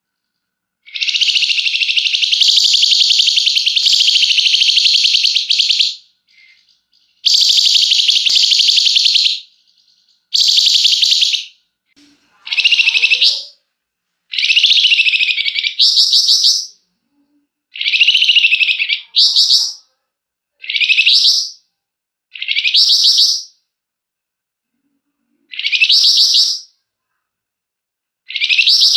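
Flamboyan songbird singing loud, long continuous buzzing trills (the 'ngebren' of bird-keepers), the first lasting about five seconds. These give way to a string of shorter, sharp phrases about every two seconds, each ending in a rising sweep.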